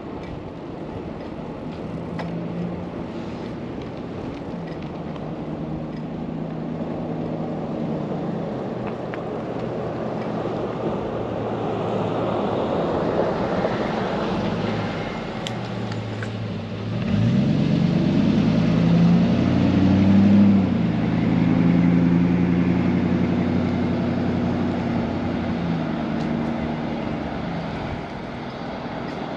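Motor vehicle traffic going by: a steady hum of engines and tyre noise, with a louder vehicle passing about two-thirds of the way through, its engine pitch rising as it approaches.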